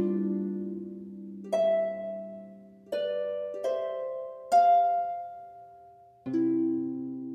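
Slow, relaxing background music played on harp: single plucked notes and chords that ring and fade, a new one every second or so.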